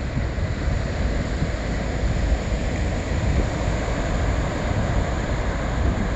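Wind buffeting the phone's microphone at the seashore, with the wash of surf behind it: a steady rushing noise with a heavy, fluttering rumble.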